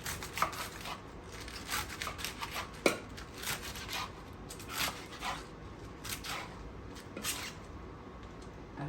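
Knife chopping baby bok choy on a cutting board: irregular cuts, about one every half second, stopping near the end.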